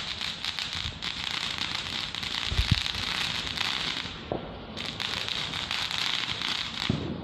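Backyard firework crackling and hissing in a dense, fast stream of crackles, with one low thump about two and a half seconds in. The crackling dies down briefly a little past four seconds in, comes back, and fades out near the end.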